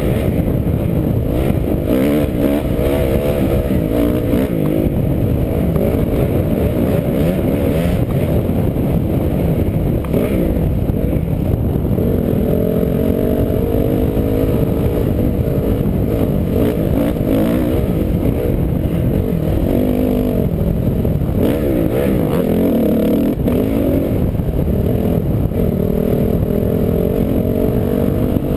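An off-road vehicle's engine runs steadily while riding, its pitch wavering up and down with the throttle. A few brief knocks come through.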